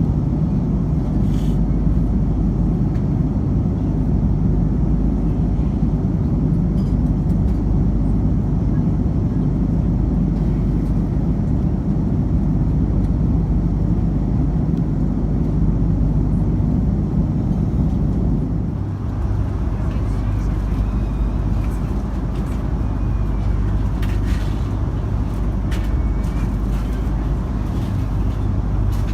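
Steady cabin noise of an Airbus A330-200 airliner: a constant deep rumble of engines and airflow heard inside the passenger cabin. About two-thirds of the way through, the lowest rumble eases slightly and a higher hiss comes up, then the noise holds steady again.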